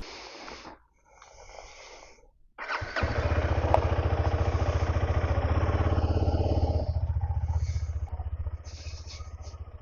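Single-cylinder engine of a KTM Adventure 250 motorcycle starting up about two and a half seconds in, then running steadily with a fast even pulse, growing quieter over the last few seconds.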